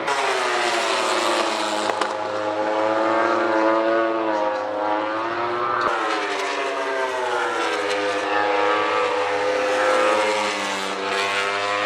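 Engines running, their pitch gliding slowly down and up, with a sudden change about six seconds in.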